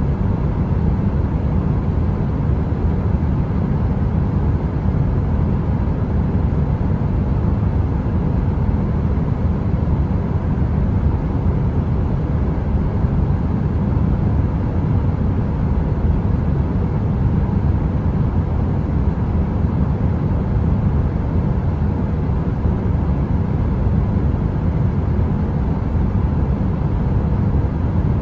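Steady, deep heater white noise, even throughout, with a faint steady hum above the rumble.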